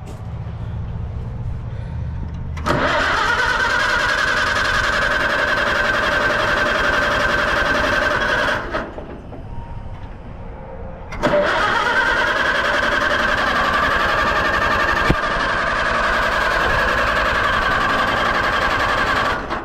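Allis-Chalmers WD45 tractor's gasoline engine being cranked by the starter in two long steady bursts, about six and eight seconds, with a pause between. It turns over but never fires: the owner believes it is flooded and suspects there is no spark.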